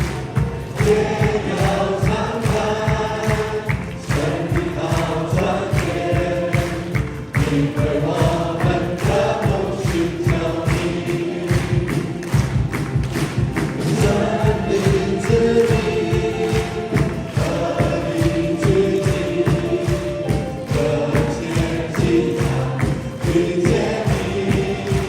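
Congregational worship song: a choir of voices singing a praise song over a band with a steady beat.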